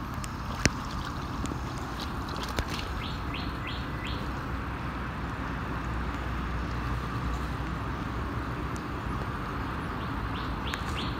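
A bird calling a quick run of four or five short high notes about three seconds in, and again near the end, over a steady background hiss, with a couple of faint clicks.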